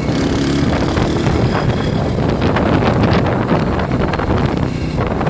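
Wind buffeting the microphone over the steady running of a Honda CRF230 dirt bike's single-cylinder four-stroke engine.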